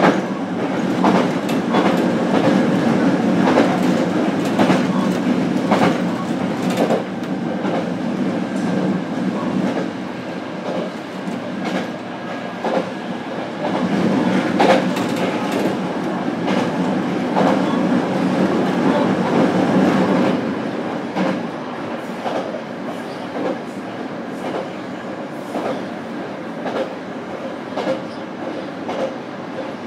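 Running noise inside a JR Kyushu BEC819 "DENCHA" battery-electric train car at speed, running on battery power on a non-electrified line. A steady rumble of wheels on rail, with sharp clicks every second or so as the wheels cross rail joints.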